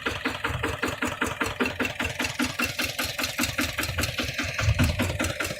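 Kubota RT155 single-cylinder diesel on a walking tractor, running with an even, rapid beat of firing pulses. It gets a little louder and heavier near the end.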